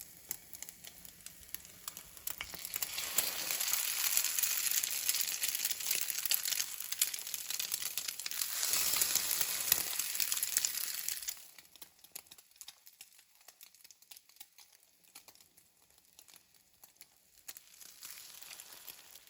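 Egg-dipped bread frying in a hot pan: a hissing sizzle that swells up a couple of seconds in and stays loud, then drops away suddenly a little past halfway to faint crackling.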